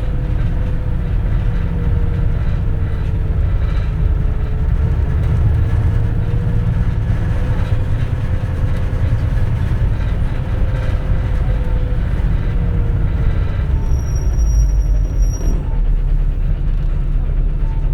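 A 2004 compressed-natural-gas city bus under way, heard from inside the cabin: a steady low rumble with a faint drivetrain whine that wavers in pitch and drops away about three-quarters of the way through. Near the end a high, steady electronic tone sounds for about a second and a half.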